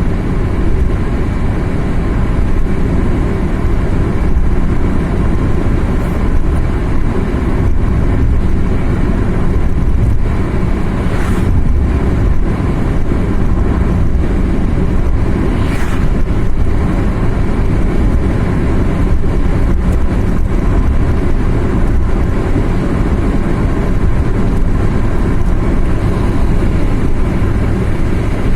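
Steady low rumble of a car driving along a road, engine and tyre noise together, with two brief hissing swells partway through.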